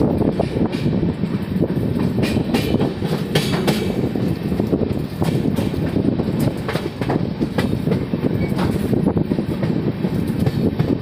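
Passenger train running along the track, heard from on board: a steady, loud rumble of the moving coaches with irregular clicks and clacks of the wheels over the rails.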